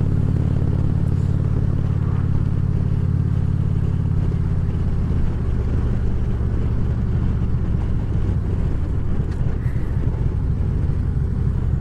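Harley-Davidson Ultra Classic Limited's V-twin engine running under way, heard with wind and road noise at the helmet. The steady engine note turns uneven about five seconds in.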